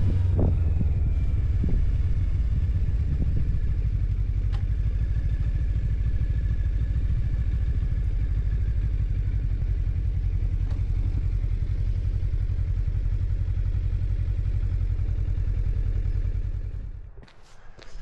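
A vehicle's engine and road rumble, running steadily and low, cutting out about seventeen seconds in.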